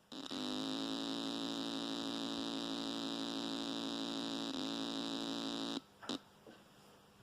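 Newly built JTM45-clone valve guitar amplifier buzzing with no cable plugged in: a strange fault of unknown cause. The buzz comes on suddenly, holds steady for nearly six seconds, then cuts off, with a click just after.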